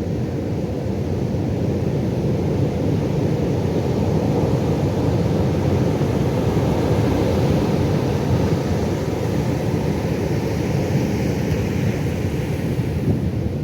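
Steady low rumble of Pacific Ocean surf mixed with wind on the microphone, swelling a little midway, with a brighter wash of water in the last few seconds.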